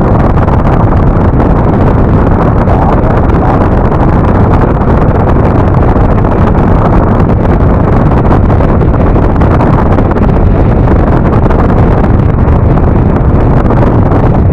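Steady, loud wind rush on the microphone of a Yamaha NMAX scooter riding along, with the engine and road noise mixed in beneath.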